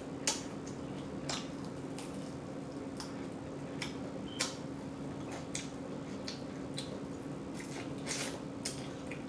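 Close-up wet smacking and chewing of a person eating a whole chicken wing, irregular sharp mouth clicks over a steady low hum.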